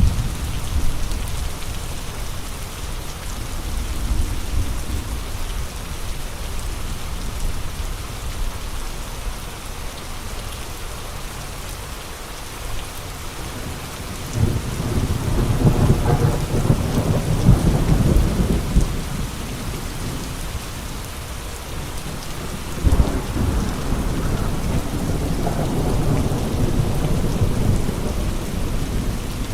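Steady rain falling, with two long swells of low rumble: one around the middle and another from about two-thirds of the way through to near the end.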